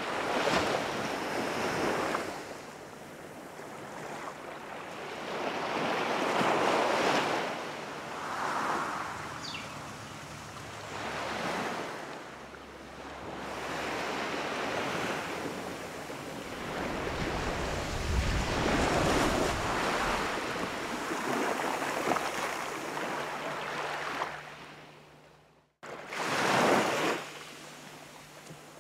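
Ocean surf breaking and washing up on a beach, swelling and ebbing every few seconds. The sound cuts out for a moment near the end, then the surf resumes.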